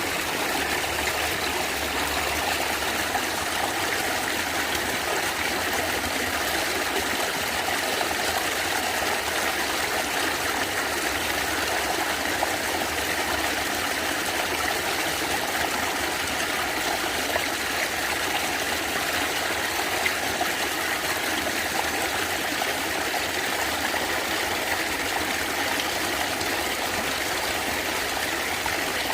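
Natural stream water gurgling steadily.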